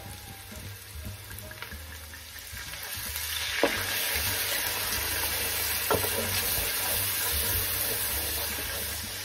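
Onions and garlic frying in oil in a pot. About three seconds in, a loud sizzling hiss rises as dry cider is poured in onto the hot onions. A wooden spoon knocks against the pot twice as it stirs.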